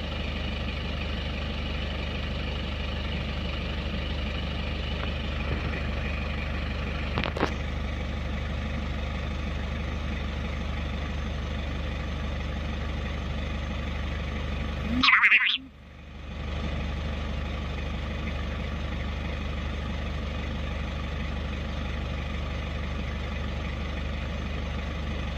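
Kia car engine idling steadily, heard from inside the cabin. About fifteen seconds in there is a short loud noise, and the engine sound drops out for about a second before returning.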